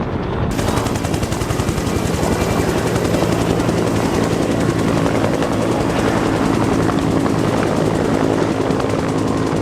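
Helicopter running, its rotor chopping rapidly and steadily.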